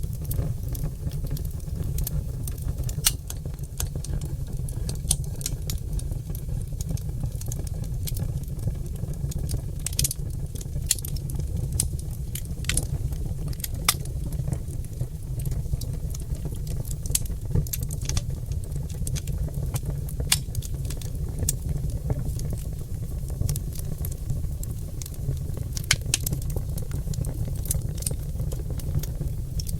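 Oak logs burning in a fireplace, crackling and popping: irregular sharp pops, a few every second, over a steady low rumble.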